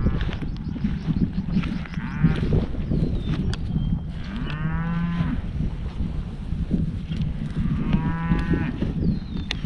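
Red Angus cattle mooing: several drawn-out moos of about a second each, the two clearest about halfway through and near the end, over a steady low rumble.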